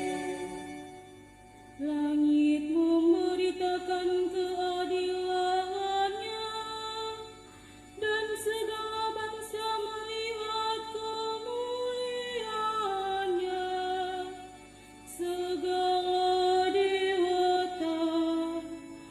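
Church choir singing in long, held phrases, with short breaks between phrases about every six seconds.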